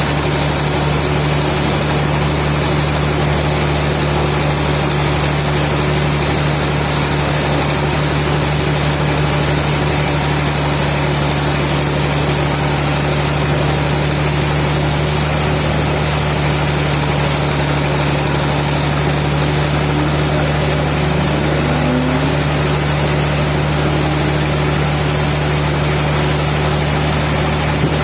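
Sawmill machinery running steadily: an even, low engine drone with no change in load.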